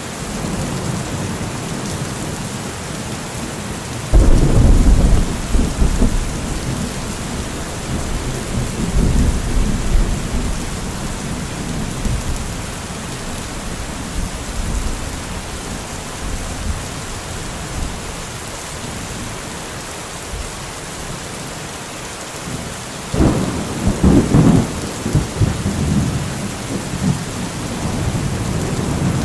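Steady rain with two sudden rolls of thunder, one about four seconds in that rumbles on for several seconds, and another near the end.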